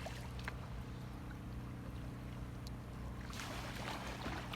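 Kayak paddle splashing in floodwater, most clearly about three and a half seconds in, over a steady low hum.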